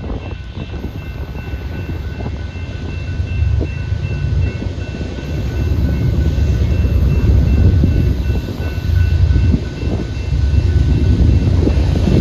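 Freight train led by two GE Dash-9 diesel locomotives approaching and passing, a heavy low engine rumble growing louder partway through.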